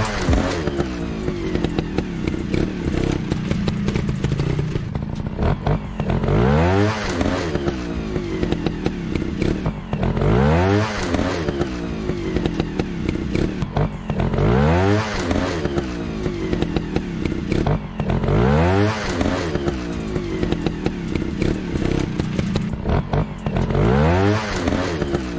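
Motorcycle engine running, revving up in rising sweeps about every four seconds over a steady running note, with light clatter.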